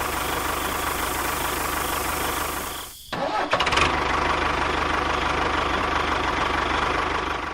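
A small motor running steadily. It drops out briefly about three seconds in, then runs on.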